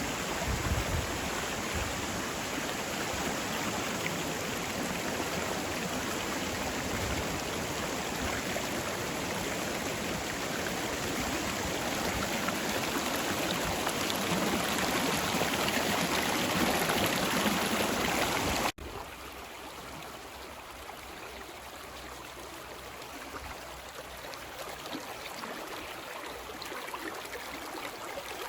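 Creek water flowing, a steady rush. About two-thirds of the way through it cuts suddenly to a quieter, softer flow.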